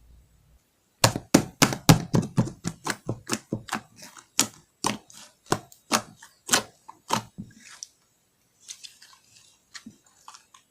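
Slime pressed and worked by hand, giving a quick run of crisp popping clicks, about three to four a second at first and slowing, then a few faint crackles near the end.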